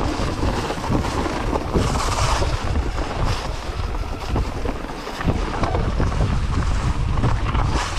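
Wind buffeting the microphone during a ride, with a continuous jumbled rumble and rattle and no engine tone.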